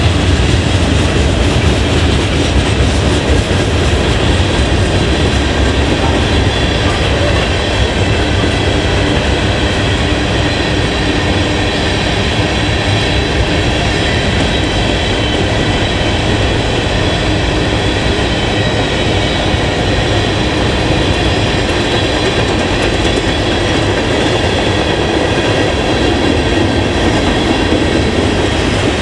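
Train rolling past on the track: a steady, loud rumble with the wheels clacking over rail joints.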